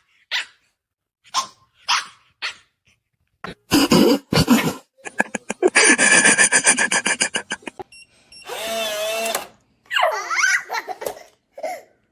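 A dog giving a few short barks, then a loud rapid rattling for a couple of seconds, followed by drawn-out high-pitched whines.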